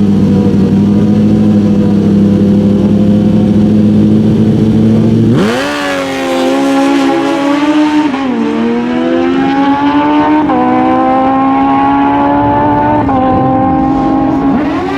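Drag-racing motorcycle engines held at a steady high rpm on the start line, then launching about five seconds in and climbing in pitch through three upshifts, each a short dip in pitch.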